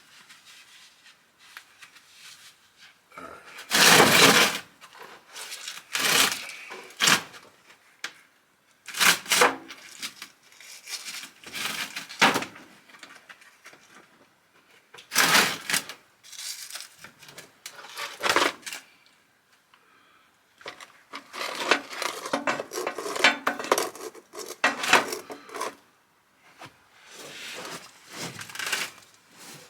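Metal tools and parts clanking and rattling in irregular bursts during a transmission pan and filter removal, the loudest clank about four seconds in and a busy stretch of rattling near the three-quarter mark.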